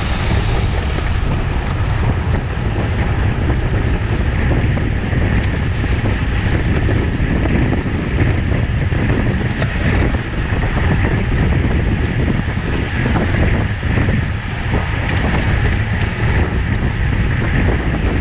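Steady wind rush buffeting the microphone of a camera riding along on a road bike at race speed.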